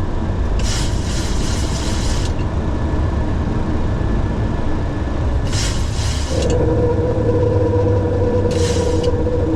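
Steady low rumble of a Boeing 737 flight deck, with three short bursts of hiss. A steady hum joins about six seconds in and holds.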